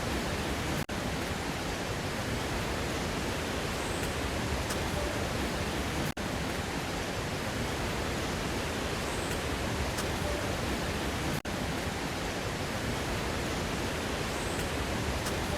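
Steady rush of falling water from a waterfall. It is a short recording looped about every five seconds, with a brief dropout at each join.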